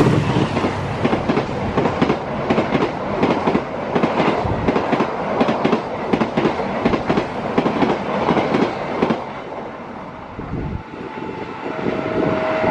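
Carriages of an express passenger train running past close by at speed, their wheels clacking in a rapid run over the rail joints. The train sound dies away about nine to ten seconds in as the last carriage goes by.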